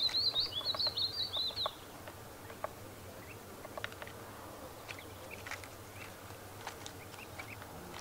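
A bird calling: a quick run of high, sharp notes that stops about two seconds in, followed by scattered faint chirps and ticks.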